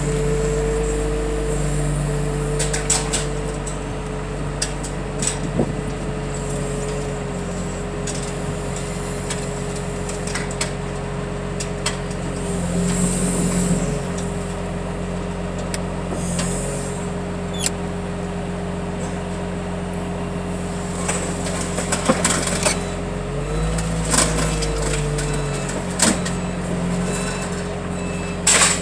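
Heavy lifting machine's engine running steadily under load while hoisting a crushed-car bundle, its pitch rising and falling briefly near the end, with scattered metal clanks and knocks.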